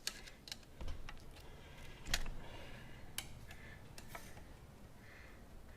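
Scattered sharp metal clicks and light scraping as a tool works the top retaining clip out of a Harley-Davidson front fork slider to free the oil seal.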